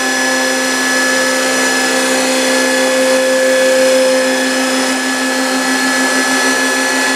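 A motor-driven machine running steadily. It gives a low hum that pulses about four to five times a second, with several steady higher tones over a hiss.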